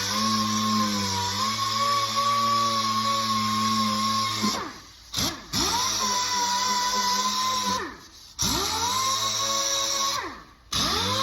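Dual-action (DA) sander with 80-grit paper running steadily, feathering the edges of a body-panel repair. It is switched off and back on three times, each time winding down in pitch and spinning back up.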